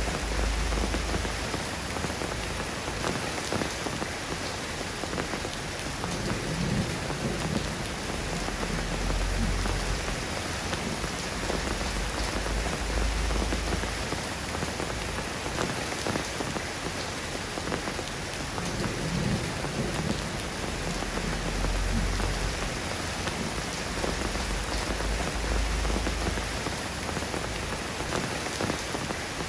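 Steady rain falling on a surface, with two long, low rumbles of thunder swelling and fading.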